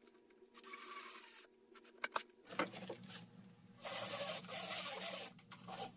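Wood trim pieces being handled and fitted against a door frame: a few stretches of rubbing and scraping, the longest about four seconds in, with a few light knocks and clicks.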